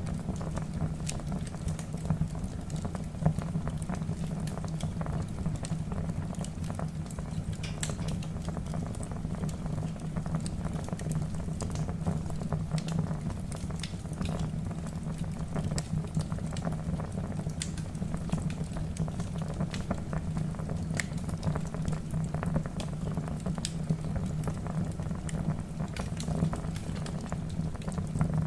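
Wood logs burning in a fireplace, crackling with frequent irregular sharp pops over a steady low rumble of the flames.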